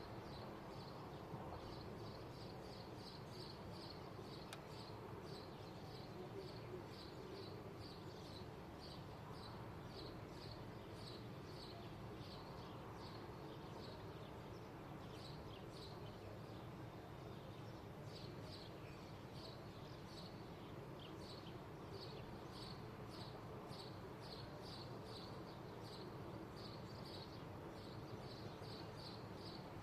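A bird chirping over and over, short high chirps several a second in runs with brief pauses, over a faint steady low background rumble of outdoor daily life.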